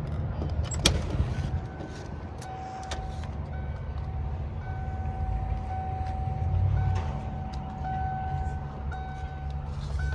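Hummer H2's 6.5-litre turbo diesel V8 running, heard from inside the cab as a steady low rumble. A thin electronic beep comes and goes over it from about a second in, with a sharp click just before.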